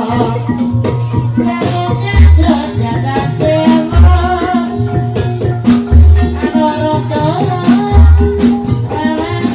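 Javanese gamelan music for an ebeg horse-trance dance: struck metal or bamboo melody instruments with rattling percussion and a singing voice, and a deep low stroke about every two seconds.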